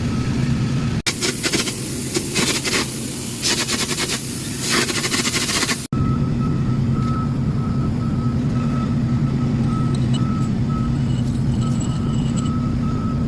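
Flux-cored arc welding at about 200 A and 21 V with argon-CO2 shielding gas: a dense, steady crackle of the arc for about five seconds. Before and after it, edited in, comes a steady low hum with a short high beep repeating about twice a second.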